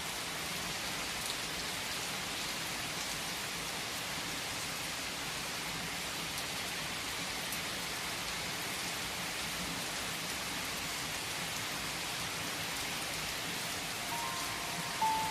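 Steady rain falling, an even hiss with scattered drop ticks. Soft piano notes come in near the end.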